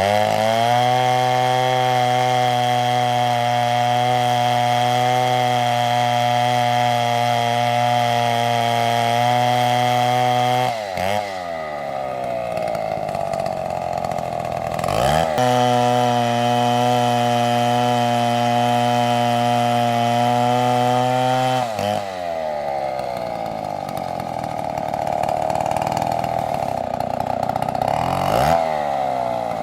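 STIHL chainsaw running at high revs, its engine note holding a steady pitch for about ten seconds at a time. Twice the pitch drops and climbs back, about a third and two thirds of the way in. In the last part the pitch wavers up and down.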